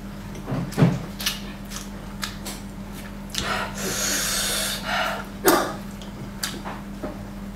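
Close-miked eating sounds: scattered wet chewing clicks and lip smacks, and a long breath of air through pursed lips about halfway through, over a steady low hum.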